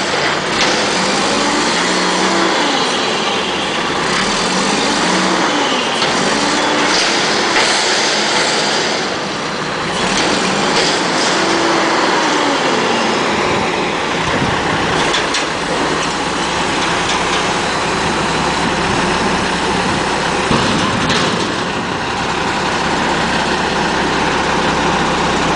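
Mack front-loader garbage truck's diesel engine revving up and down several times in the first half, then running more steadily, with a few sharp clicks near the middle and later on.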